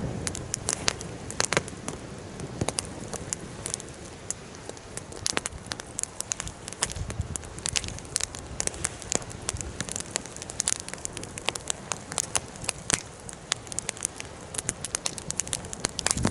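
Wood fire burning in an open fire pit, crackling with many irregular sharp pops.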